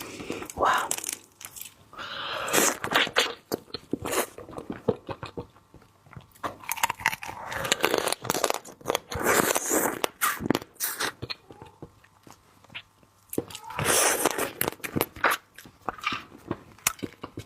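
A person biting and chewing crab close to the microphone, the shell crunching and cracking in irregular bouts with short pauses between them.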